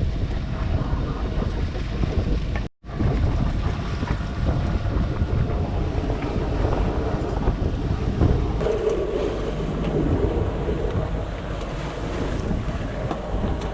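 Wind buffeting the microphone over water rushing past a sailboat's hull as it sails downwind in the trade winds. The sound cuts out briefly about three seconds in.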